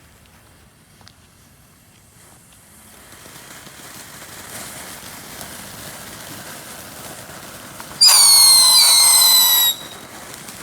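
Ground firework spraying with a steady hiss and crackle that builds up after a couple of seconds. About eight seconds in, a loud shrill whistle falls in pitch, starts again partway through, and cuts off after under two seconds.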